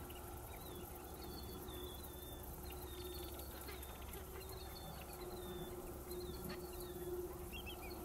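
Small birds chirping: many short, high calls, some sliding down in pitch, scattered throughout, over a faint steady low hum.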